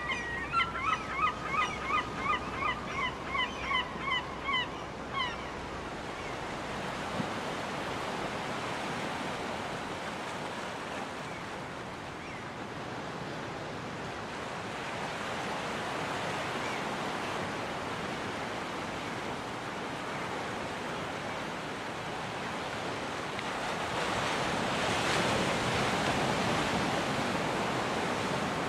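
Gull calling in a quick series of about a dozen cries, some two or three a second, over the first five seconds, then only the steady wash of surf. The surf grows louder as a bigger wave breaks near the end.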